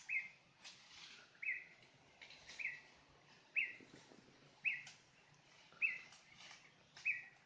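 A bird repeating one short call, seven times at about one-second intervals, each note falling slightly in pitch. Faint rustles sound between the calls.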